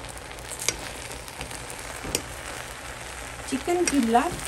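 Chicken pulao sizzling in an aluminium pot on the stove while a slotted spoon turns the rice, with a steady hiss and a few clicks of the spoon against the pot. A brief voice sounds near the end.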